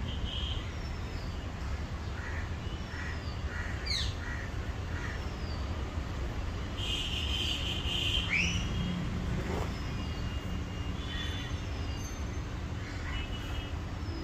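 Birds calling, with short high falling chirps repeated about once a second and a few harsher calls among them, over a steady low rumble.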